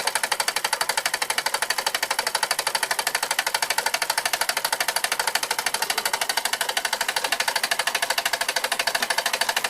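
1897 Carette toy live steam engine running fast under steam, with a rapid, even clatter of about a dozen beats a second.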